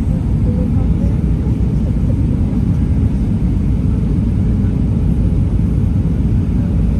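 Steady low rumble of an Airbus A320-200 airliner in flight on approach, engine and airflow noise heard inside the passenger cabin.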